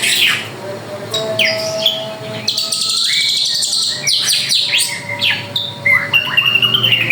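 Drongo singing: a varied, continuous run of whistled notes and quick downward sweeps, with a harsh buzzy trill about three seconds in.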